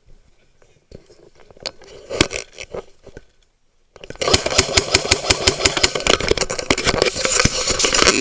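Airsoft electric gun firing on full auto: a few scattered clicks, then about four seconds in a rapid rattle of shots starts abruptly and keeps going.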